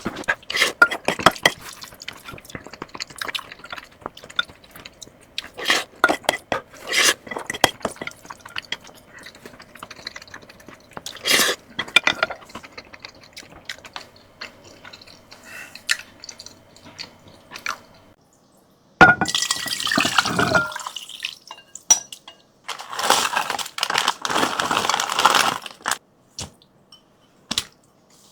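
Close-up eating sounds: wet chewing and biting with small clicks and knocks of utensils against a bowl. About 19 seconds in and again about 23 seconds in come two long, loud slurps of noodle soup.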